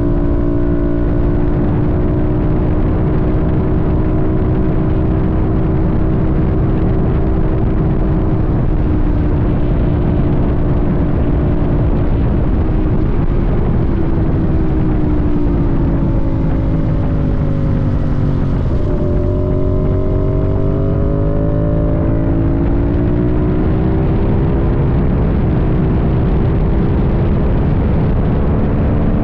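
Sportbike engine under way, holding a steady pitch, then dropping in pitch as the bike slows for several seconds and rising again as it accelerates, over a constant rush of wind and road noise.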